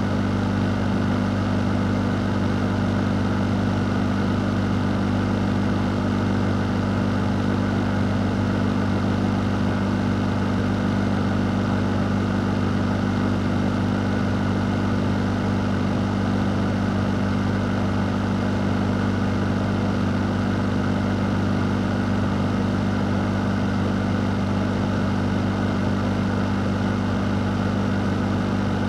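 Electric fan running steadily: a constant low hum under an even rush of air, with no change in speed.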